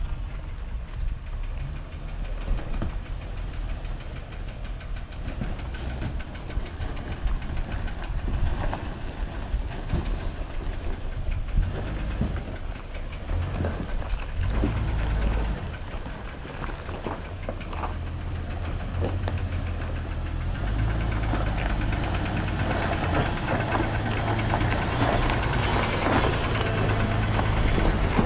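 Off-road 4x4's engine running at low revs while crawling over a rocky trail, with scattered sharp knocks along the way. A broader rushing noise builds over the last several seconds.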